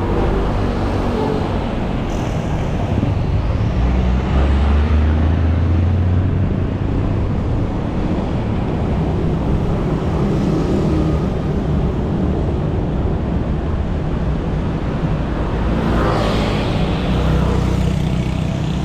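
City road traffic heard from a bicycle: a steady rumble of car and motorbike engines and tyres. A deep engine rumble swells about four seconds in, and another vehicle passes close near the end.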